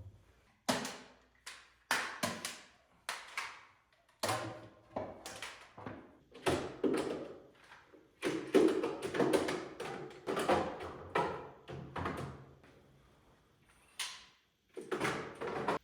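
A run of irregular wooden knocks and thunks, about one or two a second, as white oak boards and tools are handled and set down in the workshop, with a short pause near the end.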